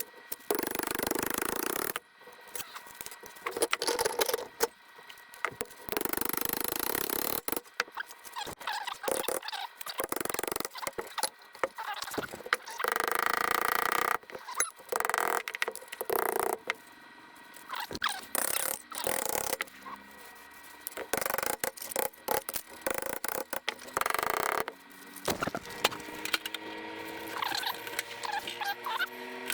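Hand tools working a piece of sheet steel: intermittent scraping strokes a second or two long, mixed with sharp clicks and knocks of metal.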